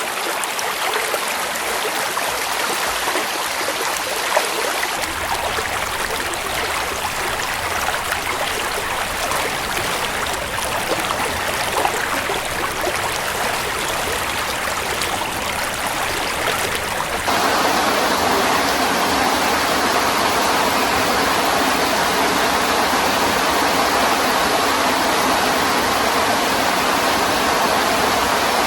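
Heavy rain falling in mountain forest: a steady rushing hiss that shifts abruptly about 5 seconds in and again, louder, about 17 seconds in.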